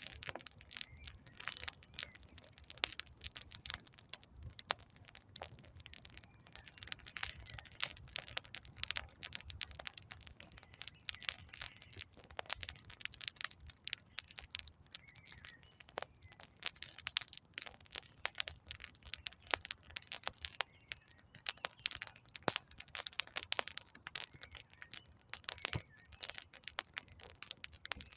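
Wood campfire crackling: dense, irregular snaps and pops of burning logs over a soft low rumble of flame.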